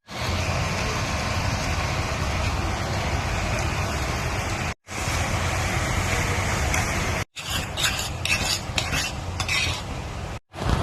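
Bihon pancit noodles stir-frying in a pan: steady sizzling with the scrape of a utensil stirring, cut into short clips by abrupt edits, with a run of sharper utensil clatter in the last clip.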